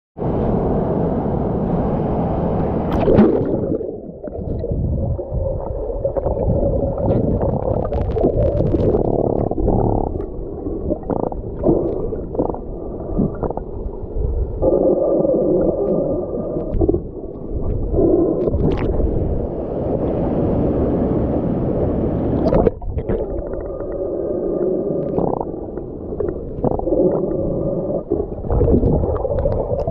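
Muffled underwater noise from a camera submerged in a weir pool: a low, steady rush and gurgle of turbulent water, with a few sharp knocks.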